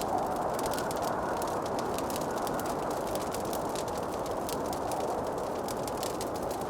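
Wood fire crackling, with many quick small snaps and pops over a steady rushing hiss.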